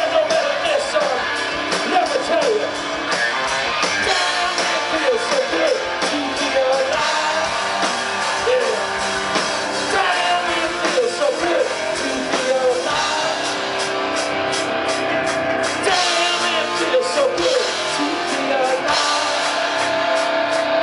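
Rock band playing a song live.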